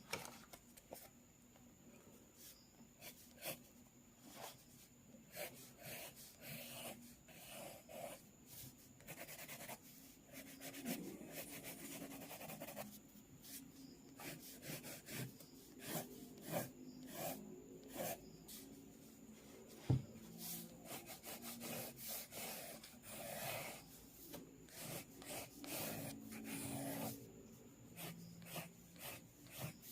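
Quick sketching strokes scratching on paper, short and irregular. There is one sharp tap about twenty seconds in.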